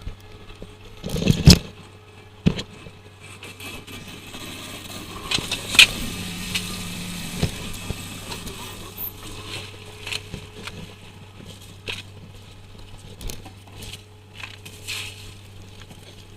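A trawler's engine drones steadily under irregular knocks, scrapes and clatter of work on deck. The loudest knocks come about a second and a half in and again near six seconds.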